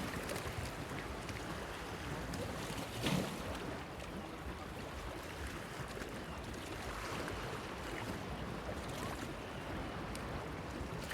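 Small waves lapping and splashing against a stone pier, a steady wash with irregular slaps and one louder splash about three seconds in.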